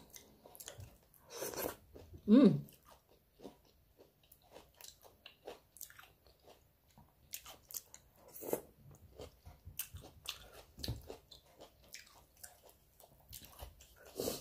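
A person chewing and biting food close to the microphone, with scattered short mouth clicks and crunches. About two seconds in there is a brief hum from the eater that falls in pitch.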